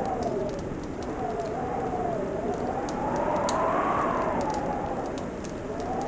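Fireplace crackling, with scattered sharp pops over a low rumble of the fire, and a whistling howl of wind that rises and falls in slow swells every few seconds.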